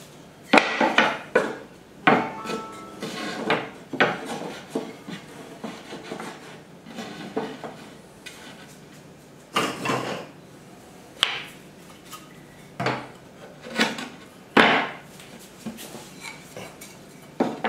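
Loose wooden beehive parts, the pieces of the unassembled base and bottom board, being handled: irregular knocks and clatters of wood on wood with scraping between them.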